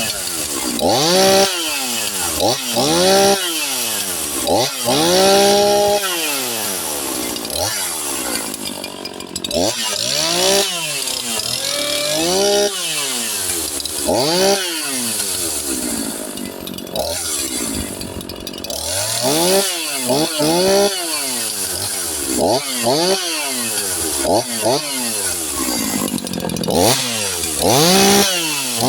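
Echo CS-4910 two-stroke chainsaw with a modified muffler, revved in repeated throttle blips: the pitch climbs sharply and falls back toward idle over and over, with a few longer held revs. The opened-up muffler gives it more noise and bark.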